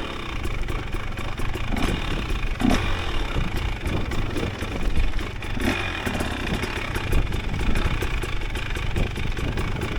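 Dirt bike engine running at shifting throttle while ridden over a rough, rain-torn trail, with frequent sharp clicks and knocks throughout.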